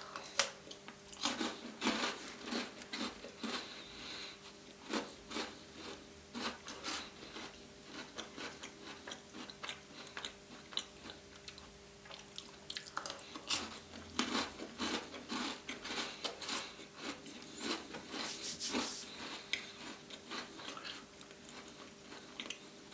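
Close-miked chewing of chocolate-coated Tim Tam biscuits, with irregular crisp crunches from the biscuit breaking between the teeth.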